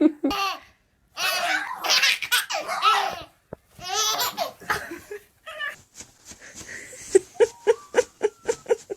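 Baby laughing: long, high, warbling belly laughs, then a run of short quick giggles at about four a second in the second half.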